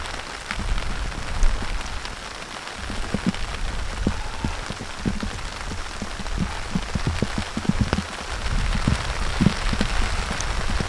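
Rain falling, with many drops tapping irregularly on a surface over a steady hiss and a low rumble.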